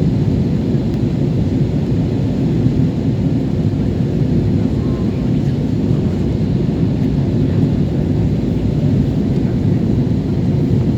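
Steady low rumble of a jet airliner in flight, heard from the cabin: engine and airflow noise, even and unchanging.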